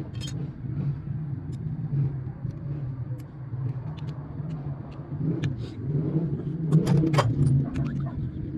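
A steady low engine-like rumble with scattered sharp clicks and taps, a few louder ones together near the end.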